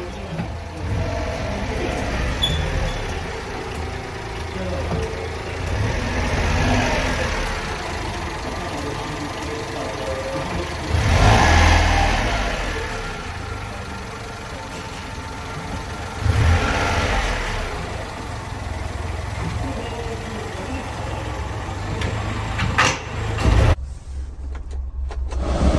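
1996 Honda Acty mini truck's 656 cc three-cylinder engine running at idle and revved up twice, about eleven and sixteen seconds in. The sound cuts off abruptly about two seconds before the end.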